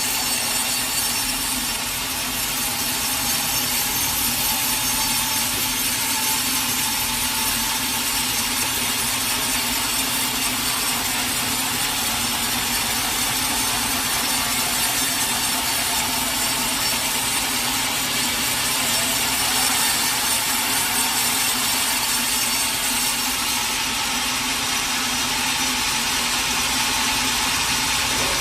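Sawmill saw cutting steadily through a teak log, a continuous sawing noise with a low steady hum under it.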